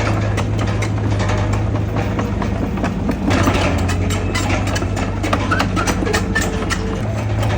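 Heavy diesel engine of earthmoving machinery running steadily, with a continual scatter of small metallic clanks and rattles over it.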